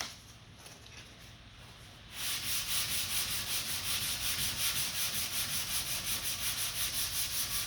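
Sandpaper on a soft sanding block rubbing over lacquer primer on bodywork, by hand in quick, even back-and-forth strokes that start about two seconds in. It sounds good to the sander, a sign the primer is dry enough to sand slick rather than gumming the paper.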